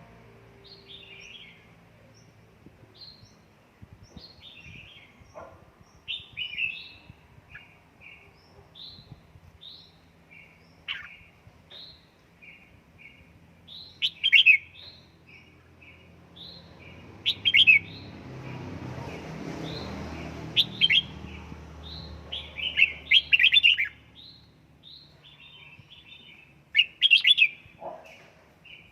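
Red-whiskered bulbul calling in short chirps, breaking into louder bursts of song every few seconds. A low rushing noise rises under the calls for a few seconds in the middle.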